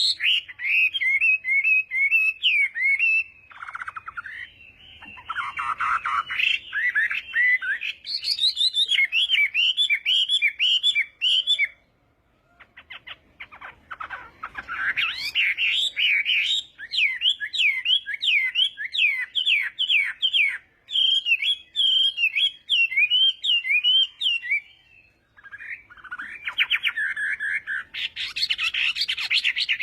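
Chinese hwamei (a laughingthrush) singing a varied song of rapid repeated whistled notes and slurs in long phrases, breaking off briefly about twelve seconds in and again near twenty-five seconds.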